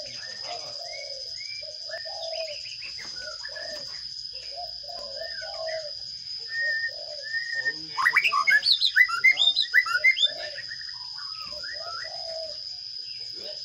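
Sparrow nestlings begging in a nest box: a loud burst of rapid, high chirps from about eight to ten and a half seconds in, over softer scattered chirps and repeated low calls. A steady high-pitched whine runs underneath.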